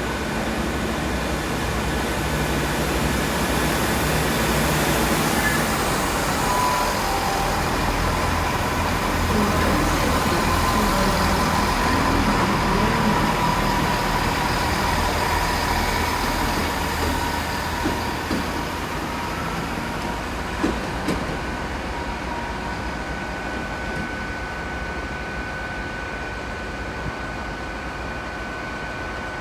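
Diesel 'Turbo' multiple unit pulling out of the station under power: a steady engine rumble that builds for about ten seconds, then fades as the train draws away, with a few short knocks about two-thirds of the way through.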